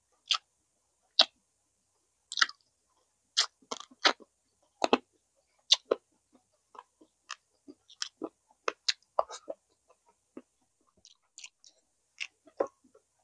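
Close-miked mouth sounds of someone eating chicken inasal and rice: irregular sharp wet smacks and clicks of chewing, about one or two a second.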